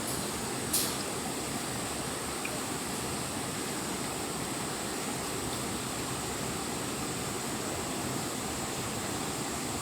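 Steady rush of flowing water, with one brief sharp click about a second in.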